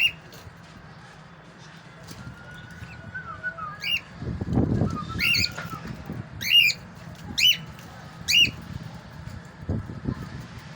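Male cockatiel giving short, sharp calls, about five of them roughly a second apart in the second half, with a low rustle just before the calls begin.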